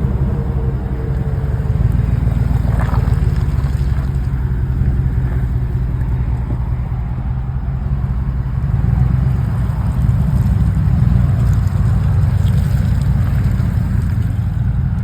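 Truck engine running under load as it drives through deep mud, a heavy low rumble that swells and eases a few times.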